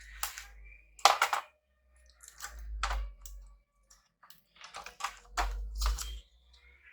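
Irregular clicks and taps of a screwdriver and small parts handled against a laptop's plastic case during disassembly, a few sharp knocks with short pauses between them.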